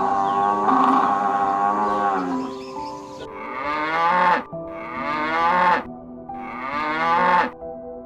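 Cattle mooing: one long moo, then three shorter moos about a second each, spaced evenly.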